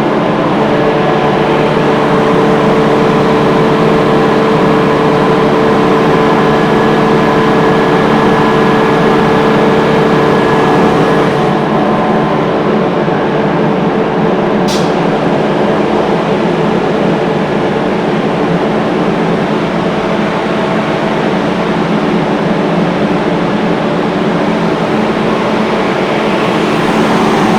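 Industrial screw air compressor running: a loud, steady machine drone with several held tones over a noisy hum. Some of the tones drop away about eleven seconds in.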